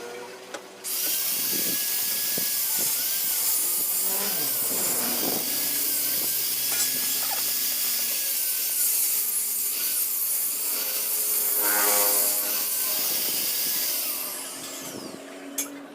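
A power sander working a car body panel: a steady, high-pitched hiss that starts suddenly about a second in and dies away near the end.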